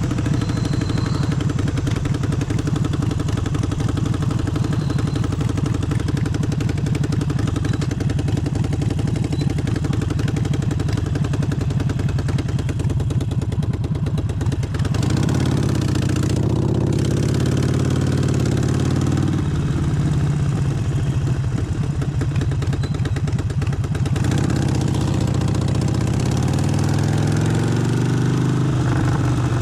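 Harley-Davidson Forty-Eight's air-cooled Evolution V-twin running with its even pulsing beat. Engine pitch rises as it accelerates about halfway through and again near the end.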